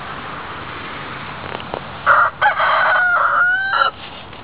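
A rooster crowing once, starting about two seconds in: a short first note, then a long held cock-a-doodle-doo note that rises at the end.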